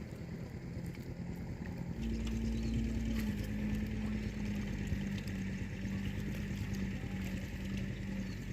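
A small engine running steadily. About two seconds in it picks up, louder and higher in pitch, then settles a little lower and keeps running.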